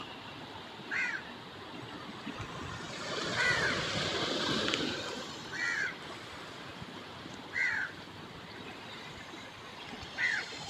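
A bird calling, five short calls about two seconds apart, over a steady background hiss that swells for a couple of seconds in the middle.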